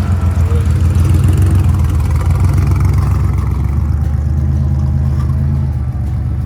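Off-road 4x4's engine running steadily under load as it drives through a shallow creek.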